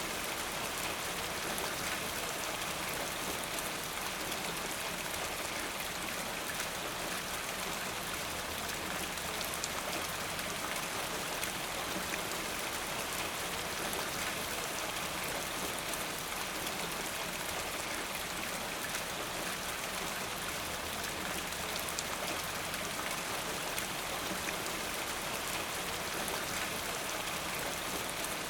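Steady rain falling, with the fine patter of many drops on surfaces.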